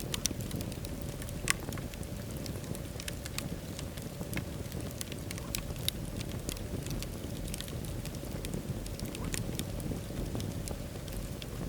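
Wood fire burning in a fireplace, with a steady low rumble and irregular sharp crackles and pops. Two pops stand out, one about a second and a half in and one near the middle.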